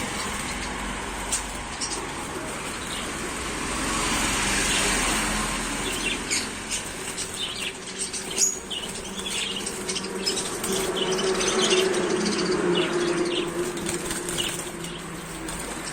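A roomful of caged pet birds fluttering and chirping, with short, high chirps coming thick and fast from about six seconds in.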